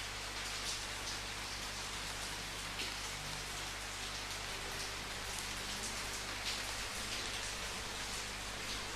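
Steady rain falling on a surface, with single louder drops and splashes standing out here and there.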